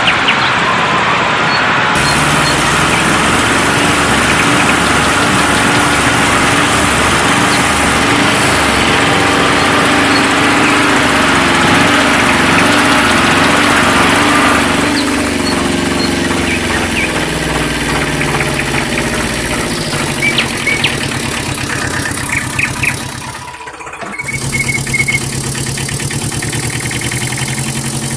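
Tractor-style engine sound running steadily, heard in several cut-together stretches with a brief dip about 23 seconds in.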